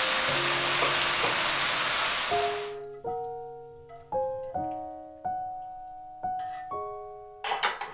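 Spicy pork and vegetables sizzling in a cast-iron skillet, a steady hiss that cuts off abruptly about two and a half seconds in, over soft piano music. Near the end, a few quick scrapes as a wooden spatula pushes the stir-fry out of the skillet into a dish.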